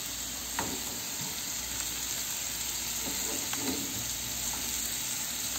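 Halved bananas sizzling steadily as they fry in fat in a frying pan, with two faint clicks.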